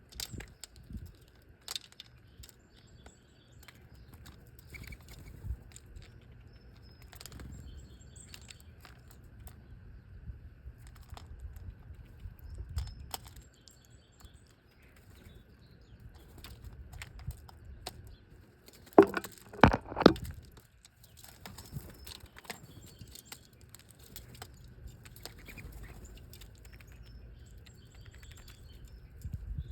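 Small birds close by, with wings flapping, scattered light clicks and taps, and faint high chirps. A loud flurry of wingbeats comes about two-thirds of the way through.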